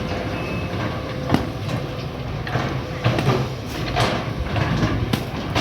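Excavator engine running steadily, with sharp metallic knocks and scrapes every second or so.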